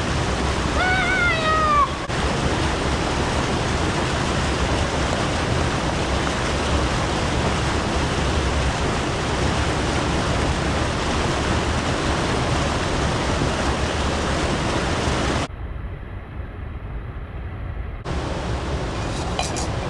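Steady rushing of a mountain stream and waterfall at a swimming hole. A short, high, falling shout rings out about a second in. Near the end the rush turns duller and quieter for a couple of seconds, then returns.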